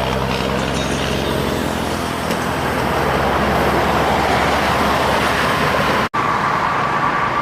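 Road traffic with heavy diesel trucks passing: a steady low engine drone over tyre and road noise. The sound breaks off for an instant about six seconds in, then carries on with a steady higher tone over the traffic.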